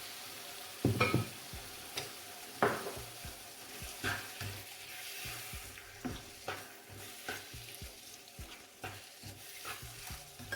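Vegetables and tomato sizzling in oil in a pot while a spoon stirs them, with irregular knocks and scrapes of the spoon against the pot; the sharpest knocks come about a second in and again a little later.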